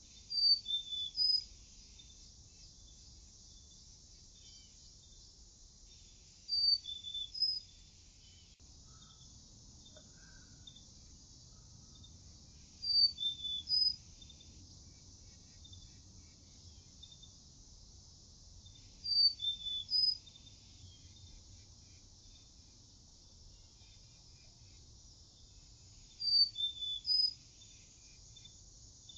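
A bird singing a short phrase of a few quick high notes, repeated about every six seconds, over a steady high insect hiss.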